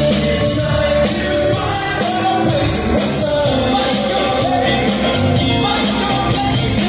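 A live soft-rock band plays while a lead singer sings a sustained, wavering melody over guitars, bass and drums.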